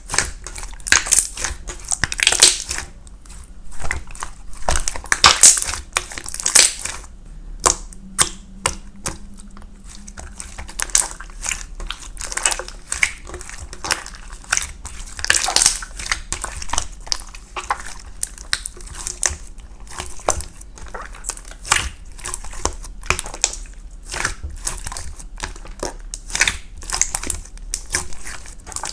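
Irregular crinkling and crunching in uneven bursts, some sharp and loud, with short pauses between clusters.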